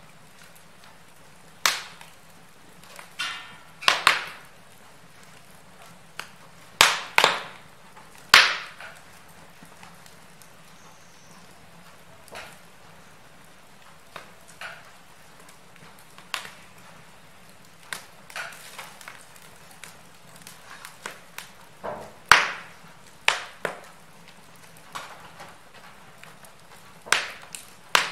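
Wood fire in a fireplace crackling, with sharp pops and snaps at irregular intervals over a faint steady hiss. The loudest pops cluster in the first nine seconds and again a little past the middle.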